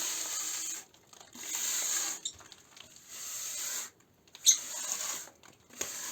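A plastering spatula scraped in repeated strokes over partly set tile-adhesive plaster, flattening the ridges of a bark-texture finish. About five scraping strokes, each under a second with short pauses between, and a sharp tap about halfway through.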